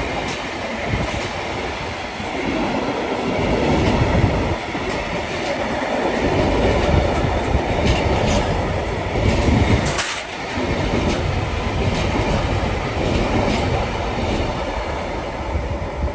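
A train passing close by on the rails: a steady rumble of wheels on track with repeated clicks as the wheels run over the rail joints, one sharper clack about ten seconds in.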